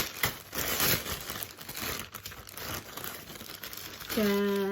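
Packaging being handled and unwrapped, with irregular crinkling and rustling. Near the end a person's voice holds one steady hummed note.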